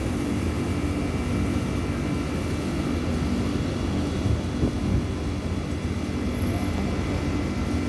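Central air-conditioning outdoor units running: a steady low machine hum with a few constant high whine tones over it.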